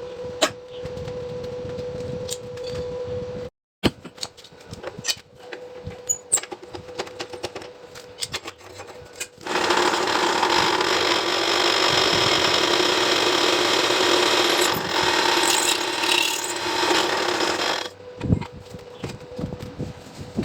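Metal parts being handled, with scattered clicks and knocks. Then, about nine seconds in, a power tool starts working metal and runs loud and steady for about eight seconds before stopping.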